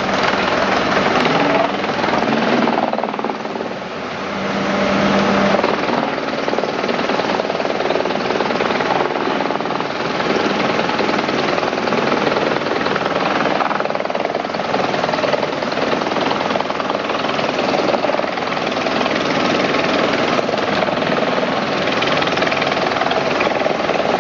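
Forestry wood chipper running loudly with a dense, steady mechanical noise that eases briefly about three seconds in and then comes back up.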